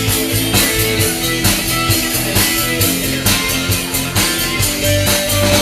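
Live rock band playing an instrumental passage: guitar over bass and a drum-kit beat.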